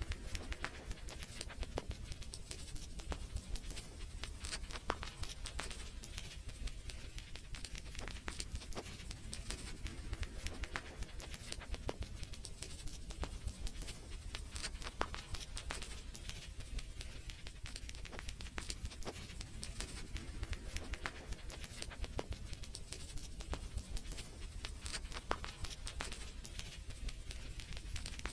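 Fire crackling in a fireplace: frequent, irregular sharp pops and snaps over a steady low rumble and hiss.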